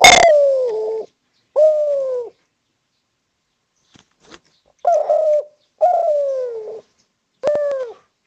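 Spotted dove (derkuku) cooing: five coos spread unevenly over about eight seconds, each one sliding down in pitch.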